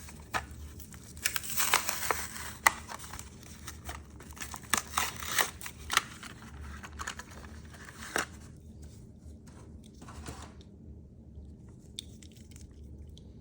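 Plastic and cardboard packaging crinkling and tearing as a Hot Wheels car is opened from its blister card: dense irregular crackles and sharp snaps for about eight seconds, then only a few faint rustles.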